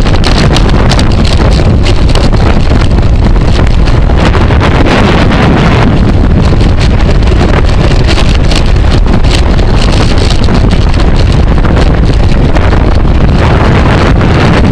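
Loud, steady wind buffeting the microphone, a constant low rumble.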